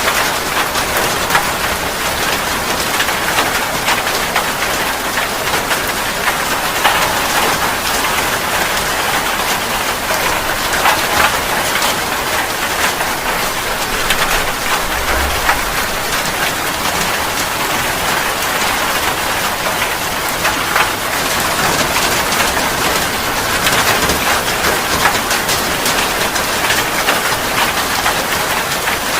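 Steady heavy rain falling: a dense, even hiss made of many small drop impacts, unchanging throughout.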